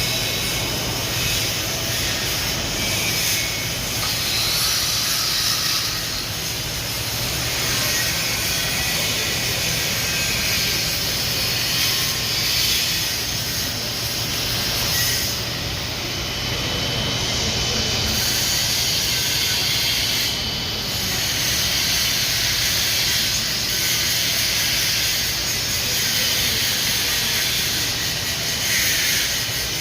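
Stick (shielded metal arc) welding arc giving off a steady, loud crackling hiss, with a steady low hum underneath.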